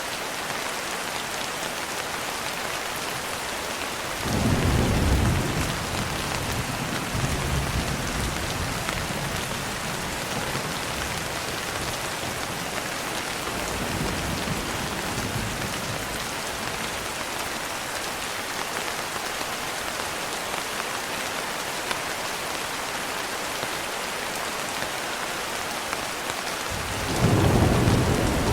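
Steady rain with rolling thunder: a loud rumble about four seconds in, a fainter one midway, and another loud rumble starting near the end.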